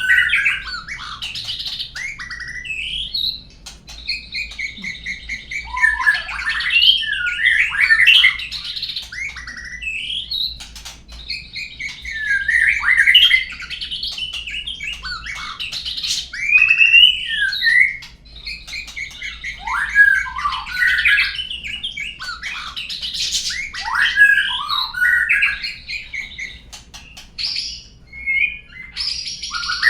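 Murai bird song from a lure recording: varied loud phrases of rising and falling whistles and chattering notes, coming in bursts of a few seconds with short pauses between.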